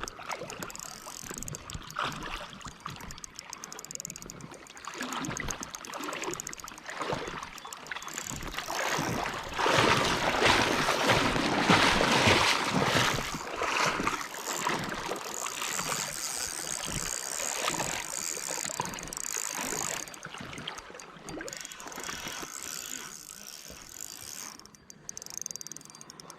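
Spinning reel clicking and ratcheting as line is reeled and pulled against the drag by a big smallmouth bass on the line. About ten seconds in, a louder stretch of splashing water lasts several seconds.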